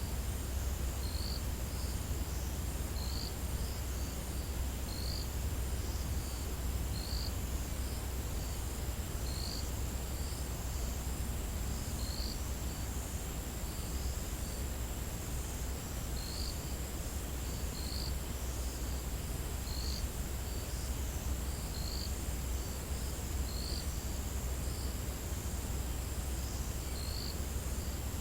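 Insects trilling steadily in a high, unbroken drone, with a short high note repeating about every one and a half to two seconds, over a steady low rumble.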